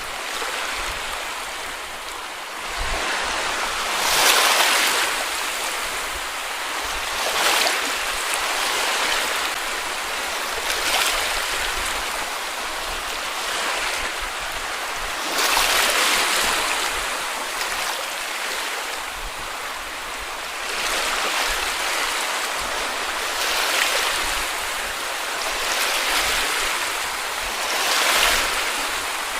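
Small waves breaking and washing up a beach, a steady hiss of surf that swells every three or four seconds as each wave comes in.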